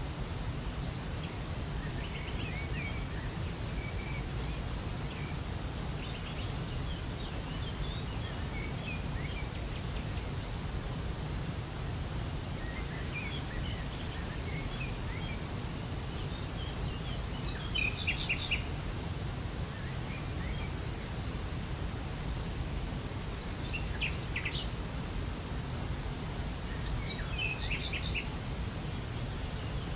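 Steady rushing of a waterfall, with small birds chirping and calling over it throughout; a few louder bursts of bird calls come about halfway through and again near the end.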